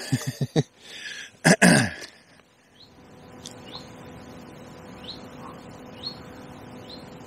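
A small bird calling over and over: short, high chirps that rise in pitch, every half second or so, over a steady background hiss. Brief voice sounds come in the first two seconds.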